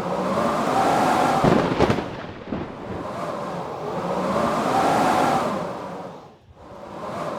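Blizzard wind howling in gusts, swelling and fading with a rising and falling pitch every few seconds. A few sharp cracks come about a second and a half in, and the wind drops briefly near the end.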